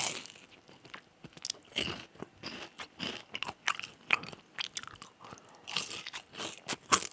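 Close-up crunching and chewing of battered deep-fried squid and shrimp: irregular crisp crunches, with a louder bite right at the start and another just before the end.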